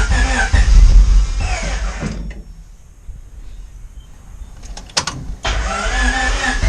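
Starter motor cranking a freshly installed Honda D16A four-cylinder engine on its first start attempt, turning it over without it catching. The cranking stops about two seconds in, a click comes near the five-second mark, and cranking resumes about half a second later.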